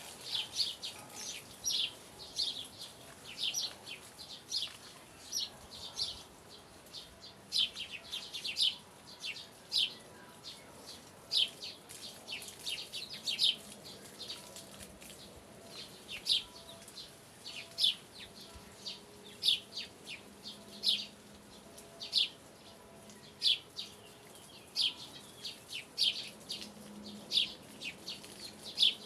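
Birds chirping: short, high chirps repeating irregularly, about one or two a second.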